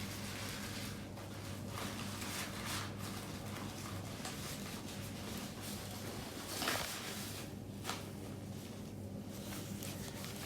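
Faint rustling and handling noises over a steady low hum, with a brief louder rustle about seven seconds in and a small click soon after.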